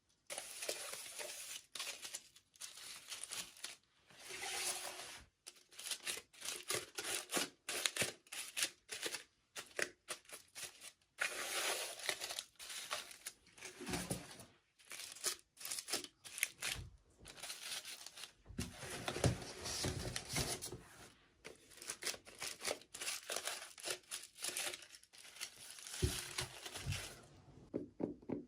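Toy packaging being torn open and crinkled by hand, in irregular runs of crackling with short pauses.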